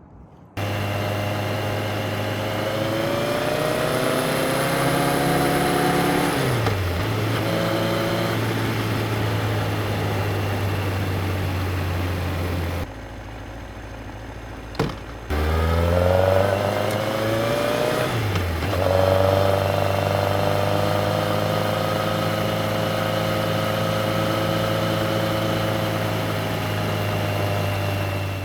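Yamaha XJR1300's air/oil-cooled inline-four engine pulling through the gears. Its pitch climbs, drops sharply at an upshift about six seconds in, then holds steady. After a quieter stretch with a short click, it climbs again, shifts up once more, and runs steady at cruising speed with wind noise underneath.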